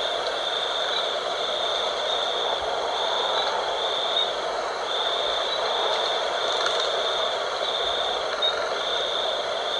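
Night-time outdoor ambience: a steady rush of wind with a high-pitched chirring that pulses on and off about once a second.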